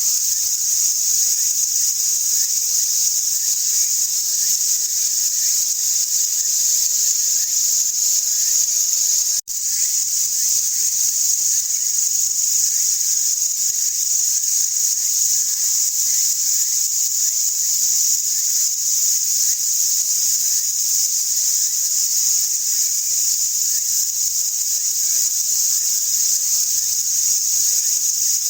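Dense, steady chorus of insects shrilling high-pitched, loud and unbroken except for a momentary break about nine and a half seconds in.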